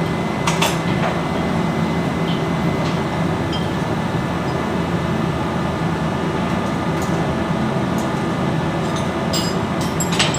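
Steady, loud machinery drone with a constant low hum and a thin steady whine over it. A few sharp metallic clicks come about half a second in and again near the end.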